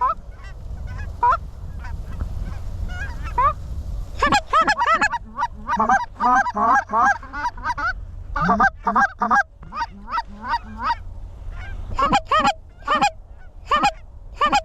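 Snow goose calls: a run of short, high, overlapping honks starting about four seconds in and coming thick and fast, over a low rumble of wind on the microphone.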